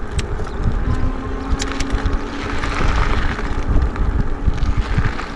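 Wind buffeting the microphone of a moving e-bike, a loud, uneven low rumble. A faint steady hum comes in about a second in.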